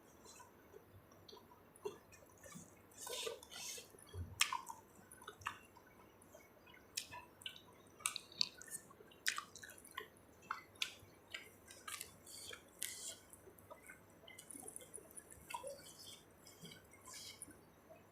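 Close-mic eating sounds: wet chewing, lip smacks and irregular small clicks of a mouthful of spicy seafood papaya salad being eaten.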